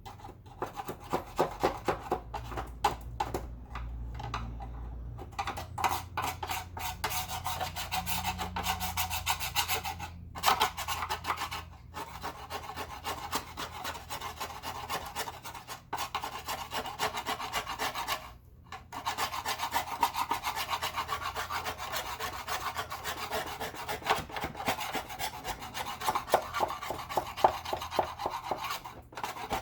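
Rapid back-and-forth scrubbing of a vacuum cleaner part, a fast run of scratchy rubbing strokes broken by a few short pauses.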